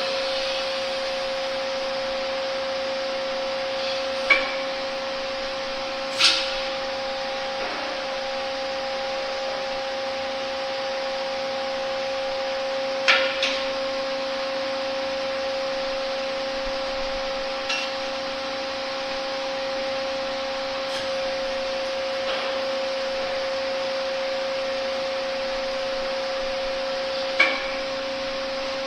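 Hydraulic test pump running with a steady whine while a cylinder is under pressure. A few sharp clicks or knocks come every several seconds.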